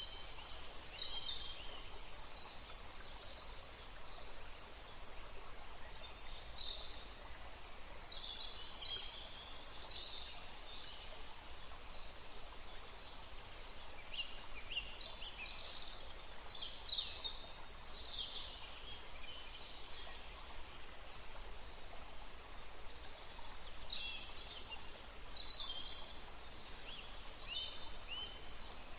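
Woodland ambience: several birds chirping and calling in scattered bursts over a steady background hiss.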